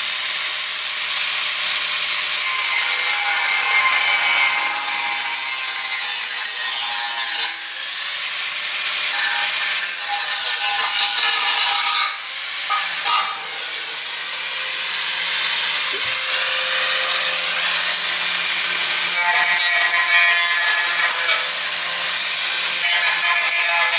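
Handheld rotary power tool cutting metal: a steady high motor whine under a harsh grinding rasp. It is released twice, about a third of the way in and again about halfway, and each time it spins back up to speed.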